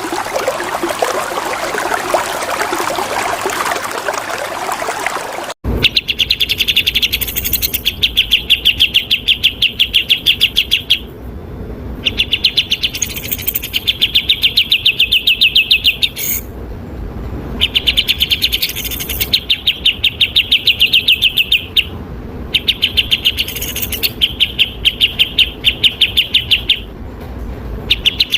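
Running water trickling steadily, cutting off abruptly about five and a half seconds in. Then a songbird sings loud, very rapid trilled phrases of a few seconds each, separated by short pauses.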